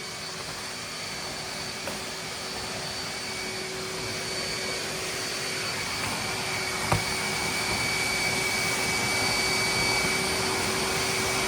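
Hoover wet/dry vac running steadily with a constant whine while sucking water out of a saturated rug, growing gradually louder. A single sharp click comes about seven seconds in.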